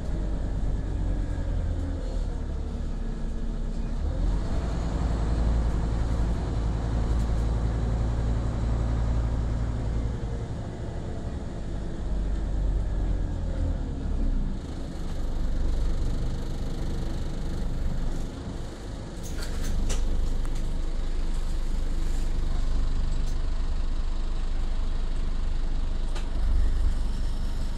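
Scania OmniCity city bus engine running, its pitch rising and falling several times with changes in engine speed. A few sharp clicks come about twenty seconds in.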